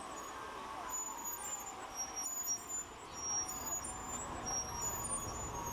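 Steady outdoor traffic noise with faint voices in the background.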